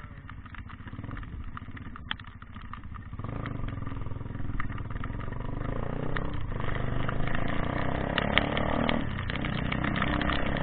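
A vehicle engine running steadily, getting louder about three seconds in, with scattered clicks and knocks.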